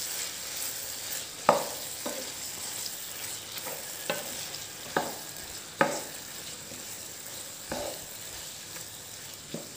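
Squid pieces with onion and tomato frying in a pan with a steady sizzle, stirred with a wooden spatula that knocks and scrapes against the pan about seven times at irregular intervals, the loudest about one and a half seconds in.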